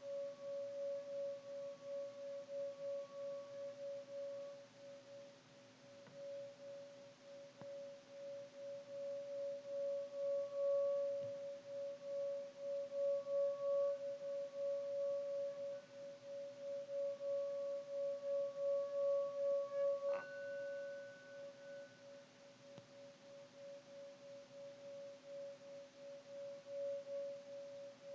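Singing bowl ringing on one steady, pulsing tone. About twenty seconds in, a higher-pitched bowl is struck once and rings out briefly over it.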